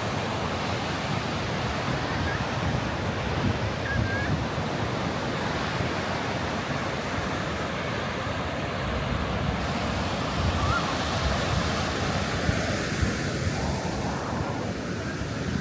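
Wind buffeting the microphone outdoors: a steady rushing noise with a gusty low rumble, and a few faint short high chirps.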